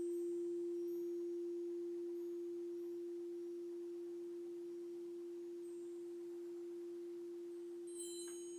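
Alchemy crystal singing bowl sounding one pure, steady tone that slowly fades. Near the end a few light, high chime notes come in.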